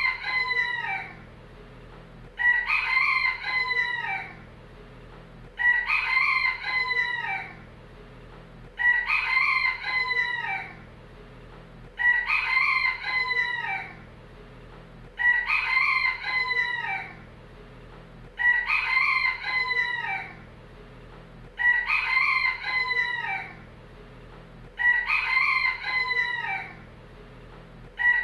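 Rooster crowing cock-a-doodle-doo, the same crow repeating about every three seconds, each crow lasting about two seconds.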